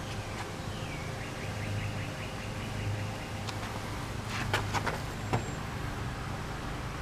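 Car engine idling steadily, with a short high trill about a second in and a few light clicks near the middle.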